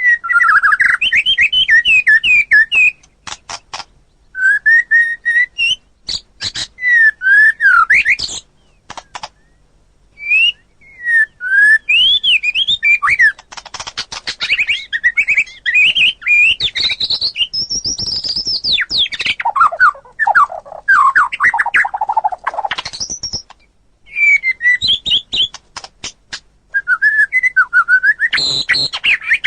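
White-rumped shama singing: loud, varied whistled phrases that glide up and down, mixed with sharp clicks and broken by short pauses.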